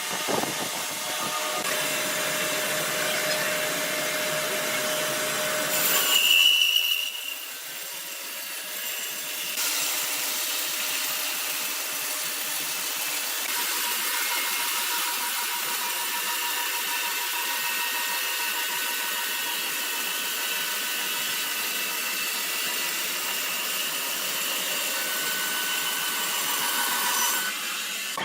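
Sawmill saw cutting timber, a steady noisy machine sound. A brief loud high whine comes about six seconds in, after which the low rumble falls away and a high hissing cut continues.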